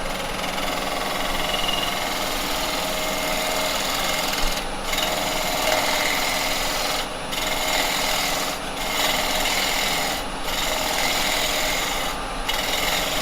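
Carbide chisel cutting a spinning piece of cherry wood on a lathe: a continuous scraping hiss, broken about five times by brief pauses as the tool comes off the wood. Beneath it is the steady hum of the Axminster 1628 lathe turning slowly, at about 1200 RPM.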